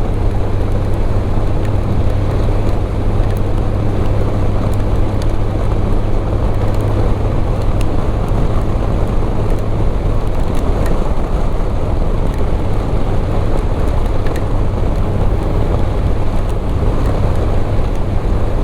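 Motorcycle riding steadily at speed: a constant low engine hum under heavy wind rush on the microphone, with a few faint ticks.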